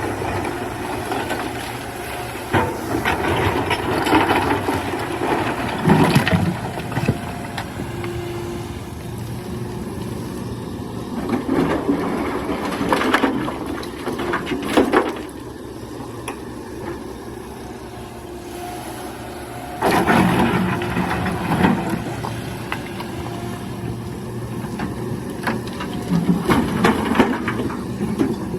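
Excavator at work: its engine runs steadily, with four rough, noisy spells of a few seconds each, spaced several seconds apart, as it digs.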